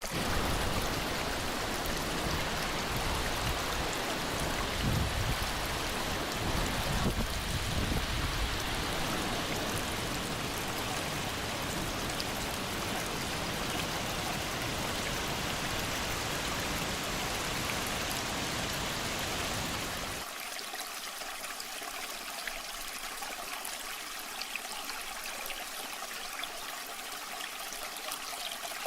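Waterfall water rushing steadily. About two-thirds of the way through, the deep rumble cuts off abruptly, leaving a thinner, hissier rush of water.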